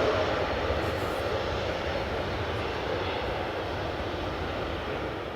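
Jet airliner engine noise, a steady rush that grows gradually fainter as the aircraft moves away, dropping off further near the end.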